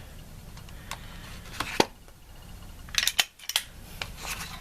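Sharp metallic clicks from the Girsan MC21 9mm pistol's hammer and trigger being worked during a single-action trigger-pull gauge test. One loud click comes a little under two seconds in, then a quick run of clicks about three seconds in, with a few lighter clicks between.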